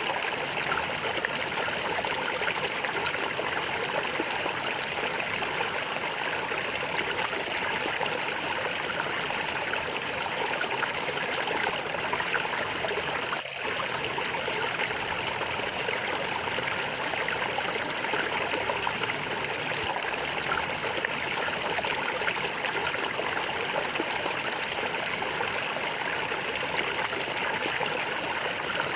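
Flowing water gurgling and trickling steadily, dipping briefly about halfway through.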